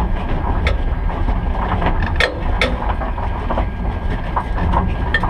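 A race car's engine idles with a low, uneven rumble, heard from inside the cockpit. A few sharp clicks stand out over it.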